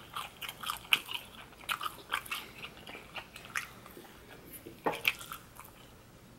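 Close-up chewing of food: a run of short, irregular mouth clicks that thins out after about three and a half seconds, with one louder click about five seconds in.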